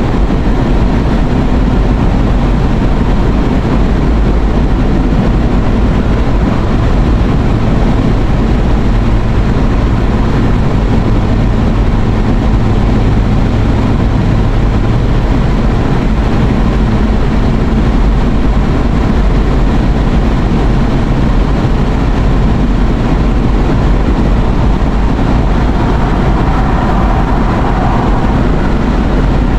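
Steady road noise and low engine rumble inside a moving car's cabin.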